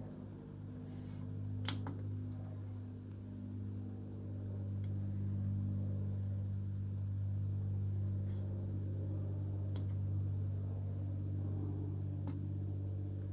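Diesel air heater's blower motor running with a steady low hum during a start attempt, with a few faint, irregular ticks.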